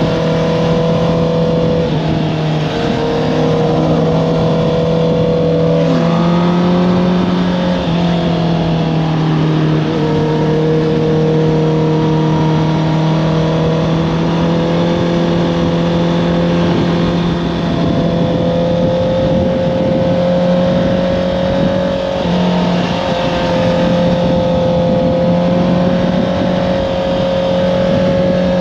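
Honda CBR650R's inline-four engine through an Akrapovič exhaust, running steadily at speed. Its pitch holds for long stretches and shifts up and down a few times as the throttle and gears change through the corners.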